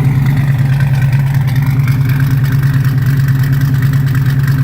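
Chevrolet Monte Carlo's 350 V8 crate engine, fitted with a 280-duration cam, idling steadily through full-length headers and stainless dual exhaust.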